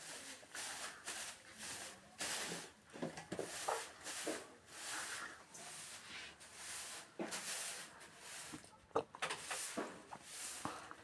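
Pencil scratching across paper in short repeated strokes, about two a second, as bird wing feathers are drawn.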